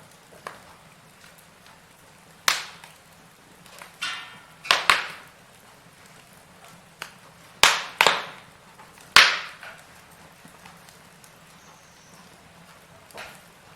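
Firewood burning in a fireplace, popping and crackling: about eight sharp cracks at uneven intervals, each dying away quickly, over a faint steady background of the fire.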